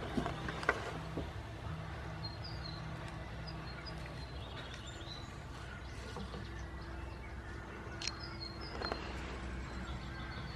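Faint high bird chirps over a steady low hum, with a few light knocks about half a second in.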